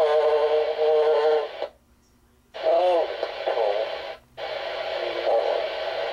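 A man's drawn-out formation calls heard over a band-limited aircraft radio. The transmission drops out to near silence for about a second near the two-second mark, and again briefly a little past four seconds.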